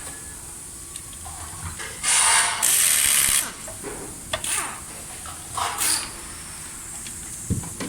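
Electric screwdriver driving screws in short runs: two longer runs about two seconds in, then a few brief bursts.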